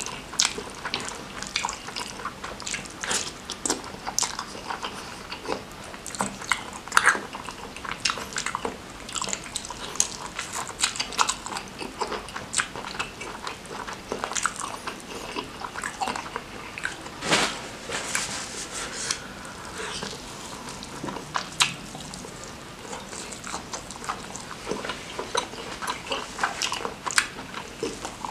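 Close-miked eating sounds: wet chewing and lip-smacking of a man eating saucy rice and noodles by hand, an irregular run of short smacks and clicks.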